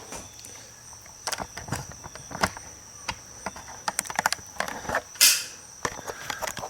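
Handling noise of a camera being taken off its mount: irregular clicks, knocks and creaks, with a loud rubbing scrape a little after five seconds in. A steady high insect trill runs underneath.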